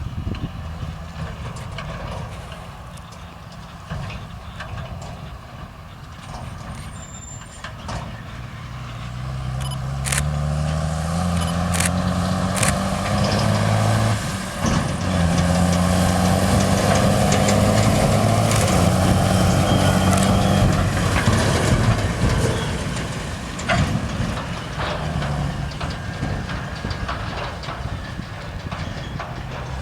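JCB 3230 Fastrac tractor's Cummins diesel engine under load. It runs steadily at first, then its pitch rises and it grows louder from about eight seconds in, pulling hard for several seconds before easing back about twenty seconds in. Occasional short knocks are heard.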